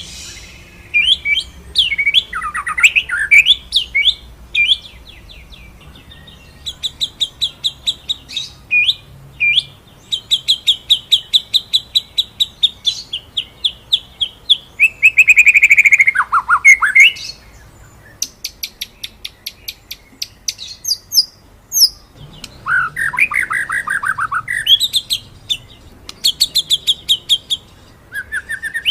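White-rumped shama (murai batu) singing a loud, varied song: fast rolling runs of repeated sharp high notes, broken by two loud downward-sweeping phrases, one about halfway through and one about three-quarters in.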